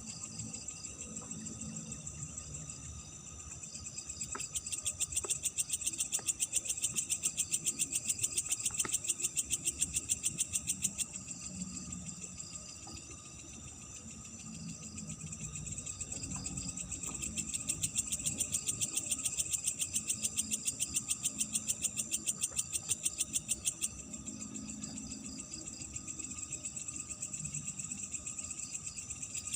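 Night insects chirping in a fast, even pulse of high notes that swells about four seconds in, fades a little before midway, and swells again, with a faint low murmur underneath.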